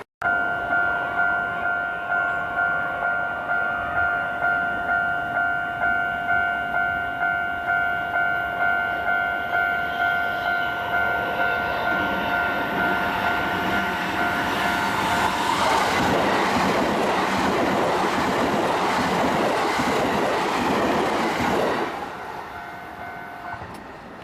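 Japanese level-crossing alarm ringing in a steady two-tone pulse, about one and a half strokes a second. About 15 seconds in, a commuter electric train (207 or 321 series EMU) passes at speed and drowns it out for about six seconds with wheel and rail noise. Then the alarm is heard faintly again.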